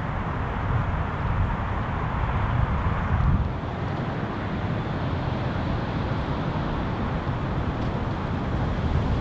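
Gusty wind rumbling on the microphone, with a stronger gust about three seconds in.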